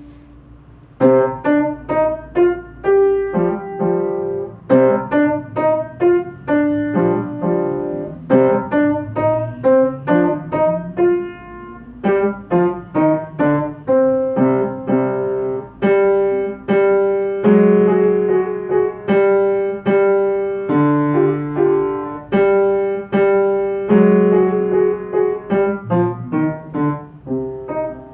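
Piano playing a short piece of detached notes and chords, beginning about a second in after a brief pause.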